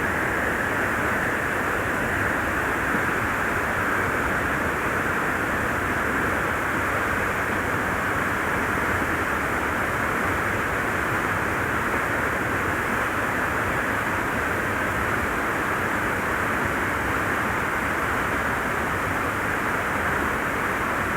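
Steady rushing of a waterfall, an even roar of falling water that holds unchanged throughout.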